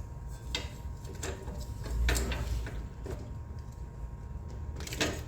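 Plastic wiring connectors behind a motorcycle headlight being handled and pulled apart: about five separate clicks and knocks over a low rumble.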